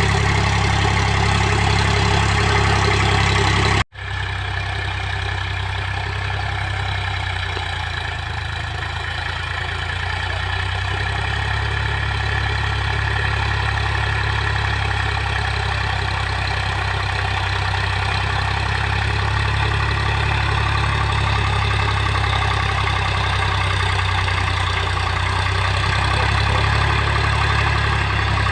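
Indo Farm 3035 DI tractor's diesel engine running steadily, with a momentary cut-out about four seconds in.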